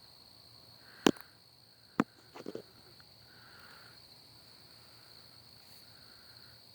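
Steady high-pitched trilling of crickets. Two sharp clicks stand out about a second in and again a second later, followed by a brief rattle of smaller clicks.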